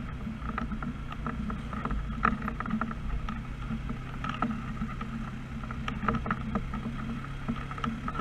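Steady engine and road drone of a vehicle under way, heard from inside the cab, with frequent small rattling clicks.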